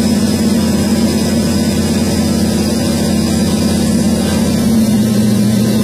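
Butler-built 467 Pontiac V8 in a 1969 GTO running on a chassis dyno, a loud, even engine note held at steady revs, shifting slightly near the end.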